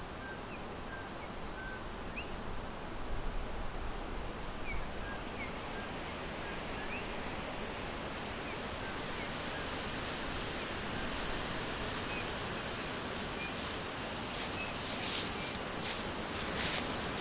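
Forest ambience: sparse, short bird chirps, high and brief, scattered over a steady background hiss. A few brief crackling rustles sound near the end.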